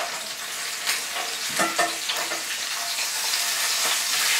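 Venison meatloaf sizzling in hot olive oil in a cast iron skillet, with a few short clicks and scrapes of a metal spatula against the pan as it is worked under the loaf to flip it. The sizzle grows a little louder near the end.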